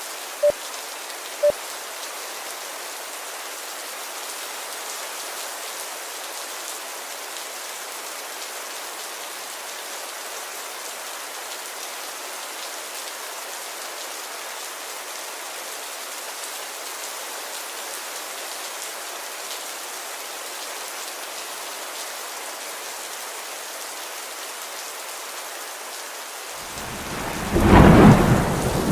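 Steady rain hiss, then a loud roll of thunder rumbling in near the end. Two short beeps sound about half a second and a second and a half in.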